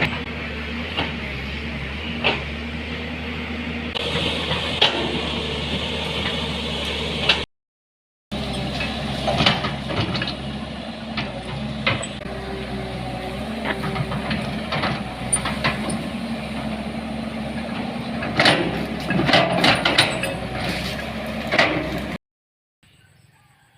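A vehicle engine running steadily, with intermittent knocks and rattles over it, as if travelling over a rough road. The sound cuts off abruptly twice.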